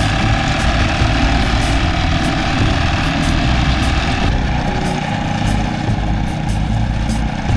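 A steady low engine rumble like a vehicle running, under sustained music-like tones that change about four seconds in.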